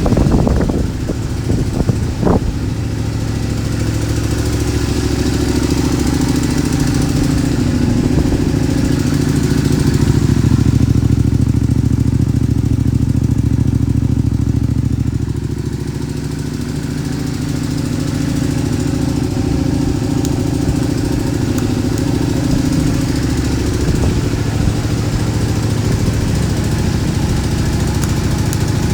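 Honda VTR250 V-twin engine running at a steady, mostly even idle through a centre-up muffler, with a few short sharp sounds in the first couple of seconds.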